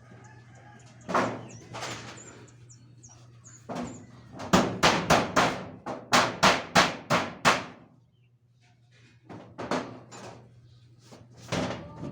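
Hammering on a construction job: a quick run of about nine blows, roughly three a second, with scattered single knocks before and after.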